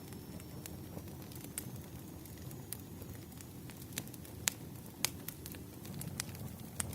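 Wood fire crackling, with irregular sharp pops over a low, steady rush of flames; the two loudest pops come about four and a half and five seconds in.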